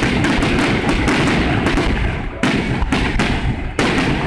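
Fireworks display going off: a rapid, continuous run of bangs, several a second, over a dense rumbling crackle.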